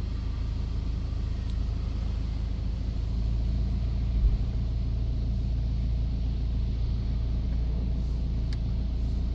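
Steady low rumble inside a car riding through a WashTec SoftLine 2 car wash tunnel during a touch-free wash, with a faint knock about four seconds in.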